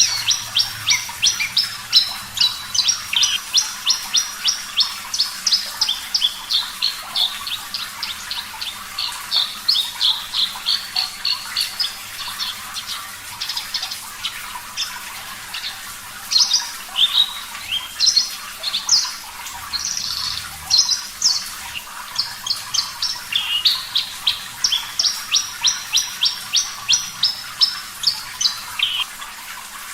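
Horsfield's bush lark (branjangan, the parva type) singing long runs of quick, sharp repeated notes, over a steady hiss. The song turns into broken, uneven phrases about halfway through and stops just before the end.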